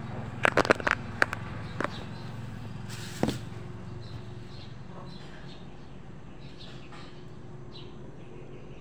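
A handful of sharp knocks or clicks in the first two seconds and one more about three seconds in, over a steady low hum, followed by faint, scattered bird chirps.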